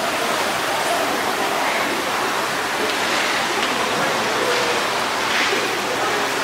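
Steady rushing of running water, with faint voices behind it.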